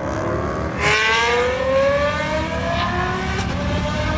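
Ferrari 812 Superfast's naturally aspirated V12 pulling hard at full throttle, its engine note climbing in pitch and getting louder about a second in, then dropping and climbing again at an upshift around three seconds in.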